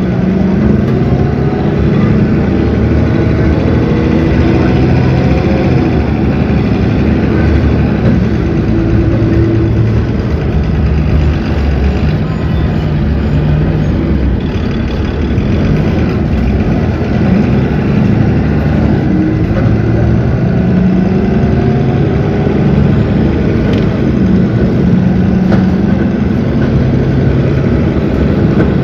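Cummins ISB 6.7 six-cylinder diesel engine of a city bus running under way, its pitch rising and falling as the engine speeds up and slows down.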